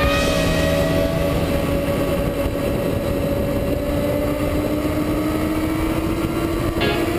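Motorcycle engine running hard on a race track, heard onboard with heavy wind rush over the microphone. The engine note is steady and climbs slowly as the bike accelerates. Music comes back in near the end.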